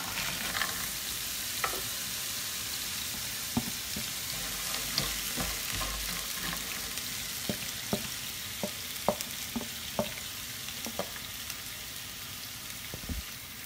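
Sliced frozen mushrooms sizzling in hot oil and garlic in a nonstick frying pan, with occasional sharp clacks as they are tipped in from a bowl and stirred with a wooden spatula. The sizzle eases slightly over the seconds.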